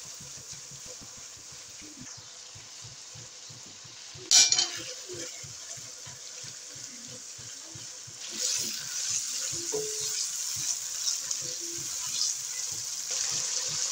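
Tomato and spice masala sizzling in hot oil in a non-stick wok while a silicone-tipped spatula stirs it, with a sharp knock about four seconds in. The sizzling grows louder about eight seconds in.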